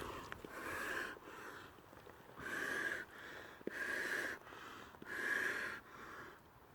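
A person breathing heavily and rhythmically, a breath roughly every second and a half.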